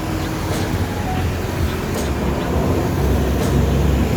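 Wind rumbling on the microphone while cycling along a road, with traffic noise.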